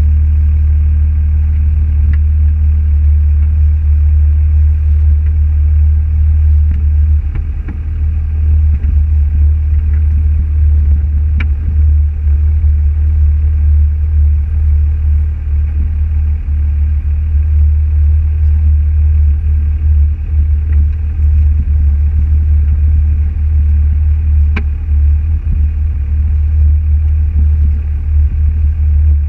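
Car engine and road noise: a loud, steady low drone throughout, with a few faint clicks.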